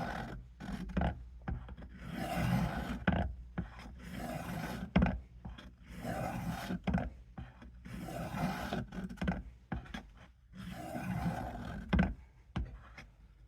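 A knife blade being drawn stroke after stroke across the oiled fine side of a Work Sharp guided sharpener plate: repeated scraping passes about one every one to two seconds, with an occasional sharp click between them.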